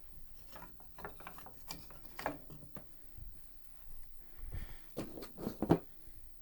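Scattered light scraping, rustling and tapping from hands handling and cleaning dusty piano parts, with a few louder knocks about five seconds in.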